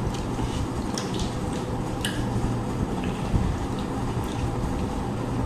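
Close-up eating sounds: a few soft, wet clicks and smacks of food being eaten and mixed, over a steady low hum.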